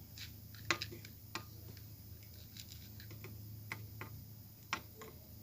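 A handful of sharp clicks and taps from handling an air-conditioner circuit board and its fittings during reinstallation, spaced irregularly, over a steady low hum.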